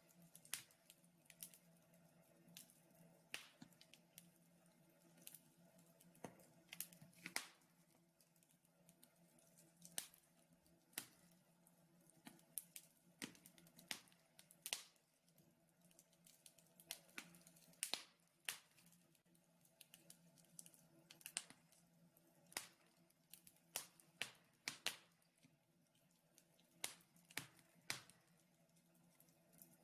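Wood fire in a fireplace crackling quietly: irregular sharp pops and snaps, sometimes several close together, over a faint steady hum.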